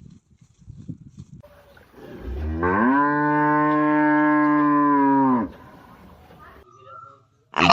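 Cow mooing: one long, steady moo of about three seconds that rises at the start and drops off at the end, with a second loud moo starting right at the end. Faint low knocks come before the first moo.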